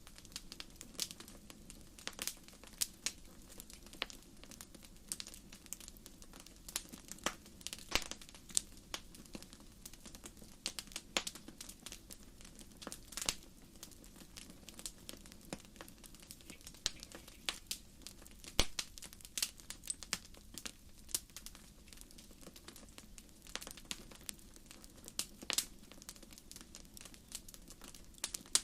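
Wood fire crackling: burning logs give irregular sharp pops and snaps, a few a second, some much louder than others, over a faint steady rush of the flames.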